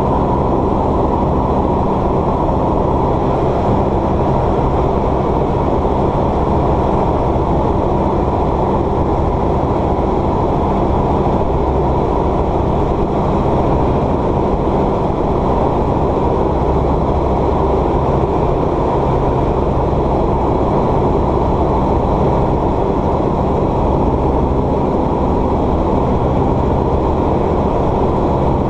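Steady drone of a light single-engine propeller aeroplane's engine and propeller, heard from inside the cabin, holding an even pitch and level.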